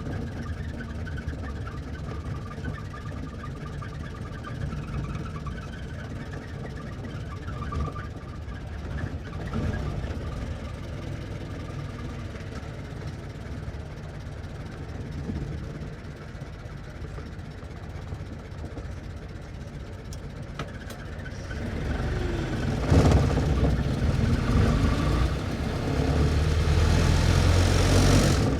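1924 Ford Model T stake bed pickup's four-cylinder engine running steadily, then about 22 seconds in growing much louder, with a sudden jump near 23 seconds, and staying loud.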